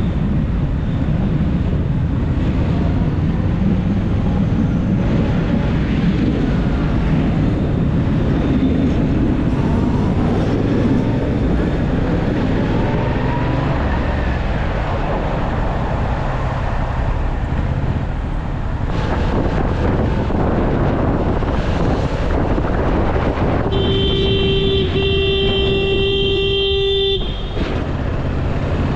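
Yamaha MT-07's parallel-twin engine running under a steady rumble of wind and road noise while riding in city traffic. Near the end a vehicle horn sounds one long steady honk of about three seconds, then cuts off.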